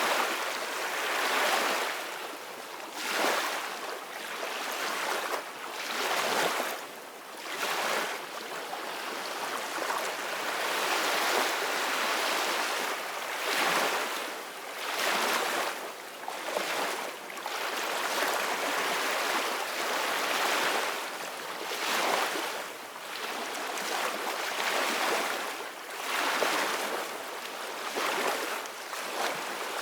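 Ocean waves breaking on a shore: a continuous rush of surf that swells and eases every second or two.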